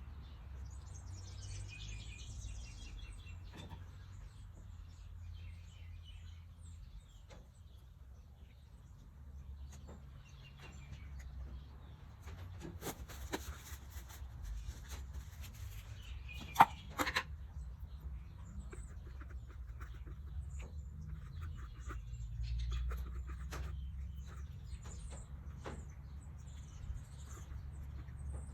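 Birds chirping in the background, with scattered small clicks and knocks and one sharp, loud click a little past halfway, over a steady low hum.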